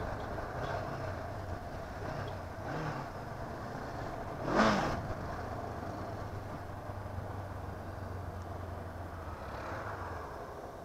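Honda CB 500F's parallel-twin engine running under way with wind and road noise; the engine note shifts a few times in the first three seconds, then holds steady. A short loud rush of noise comes about halfway through.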